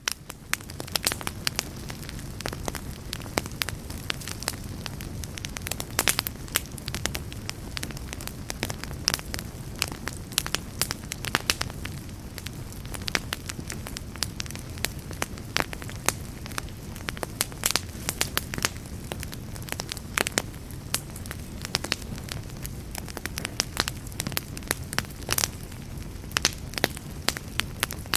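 Fireplace fire crackling: frequent sharp pops and snaps at irregular intervals over a steady low rumble of the flames.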